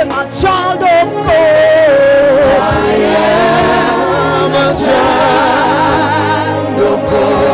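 Gospel worship singing with band accompaniment, voices holding long, wavering notes.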